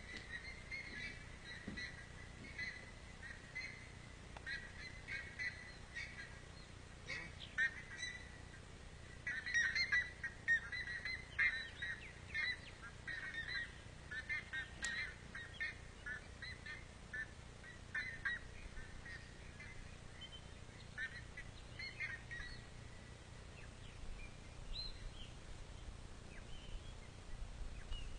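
Birds calling faintly, many short, irregular calls in clusters that grow busiest in the middle and thin out near the end.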